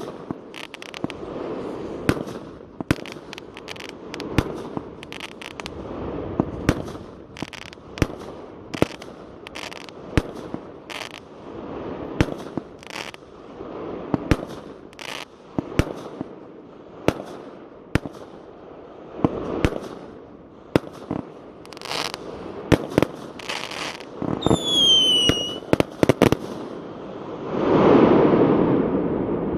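Fireworks going off: a steady series of sharp bangs and crackles, with a falling whistle about three-quarters of the way through and a long rumbling boom near the end.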